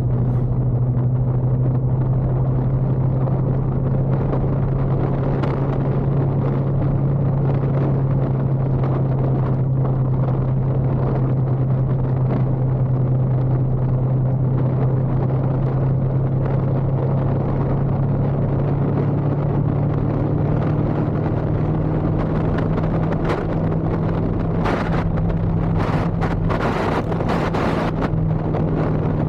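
Motorcycle engine running steadily while riding, with road and wind noise. The engine note rises slightly about two-thirds of the way through, and a few short bursts of wind noise come near the end.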